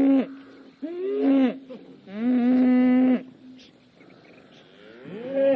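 Cattle mooing: a string of steady-pitched moos, the longest about a second, then a pause and another moo starting near the end.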